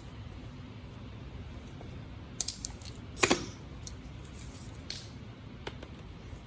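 Scattered light clicks and taps: a quick cluster about two and a half seconds in and the loudest one just after, with a few fainter ticks later, over steady low background noise.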